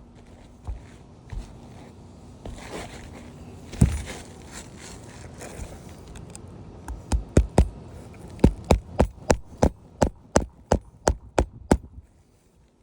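A scrape and a single loud knock, then a rapid, even run of about fifteen hammer strikes, roughly three a second, on an asphalt shingle roof while shingles are worked loose and nails removed.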